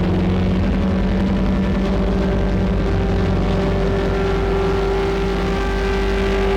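Distorted ambient drone from a eurorack modular synthesizer with a Lyra8-FX and Mimeophon delay: held pitched tones over a dense, gritty low rumble. The held note shifts higher about two seconds in.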